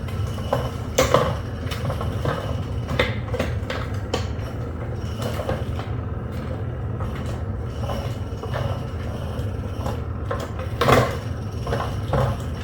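A battery-powered cat toy's small motor running with a steady low hum, under irregular light knocks and clatters as kittens paw at the toy. The loudest knock comes about eleven seconds in.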